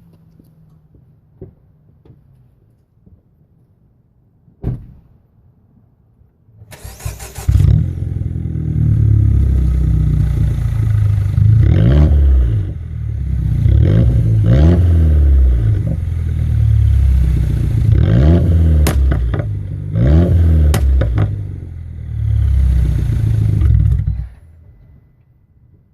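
Straight-piped exhaust of a 2011 Mini Countryman ALL4 on a warm start: the engine catches with a loud burst about seven seconds in, idles, is revved and let fall back about five times, then is switched off a couple of seconds before the end. A single knock comes a couple of seconds before the start.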